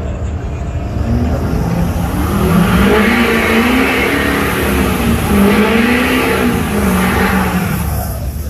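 Vehicle engine revving under load, its pitch climbing and dropping several times over a loud rushing noise, which swells and fades twice.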